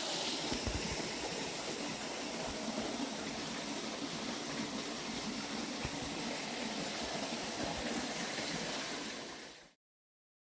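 Small garden waterfall steadily rushing and splashing over rocks; it fades out near the end.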